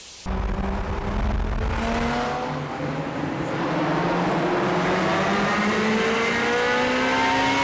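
Car engine accelerating hard, its pitch rising steadily over several seconds after a brief drop-out at the start, heard from inside a car in a road tunnel.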